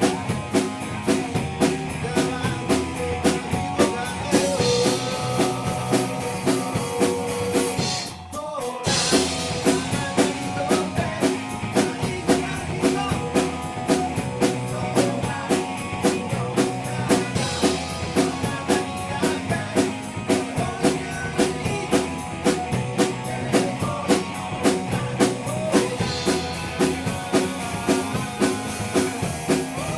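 Live rock band playing a cover of a Japanese rock song, with a driving drum-kit beat and bass; the band cuts out for a moment about eight seconds in, then comes back in.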